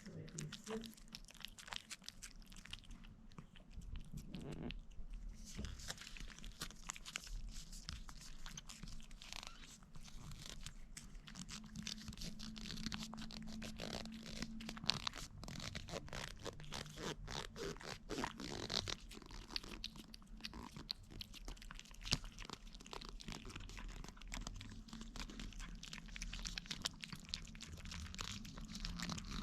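Cats licking a squeezable puree treat: a continuous run of small wet clicks and smacks from their tongues and mouths.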